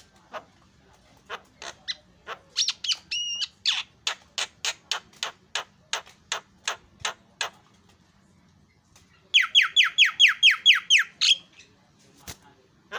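Javan myna calling: a run of sharp, clicking notes at about four a second with a short whistled note among them, then a rapid series of about a dozen downward-sweeping chirps lasting about two seconds, and one last click.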